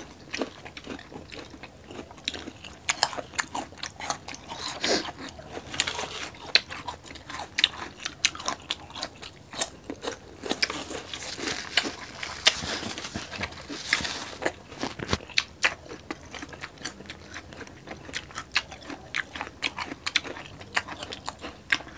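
Mukbang eating sounds: two people chewing and biting crispy pork belly and kare-kare, with many irregular crunches and wet mouth smacks.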